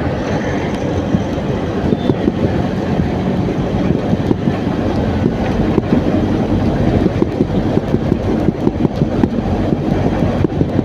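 A vehicle running with a steady low rumble and many small, irregular knocks and rattles.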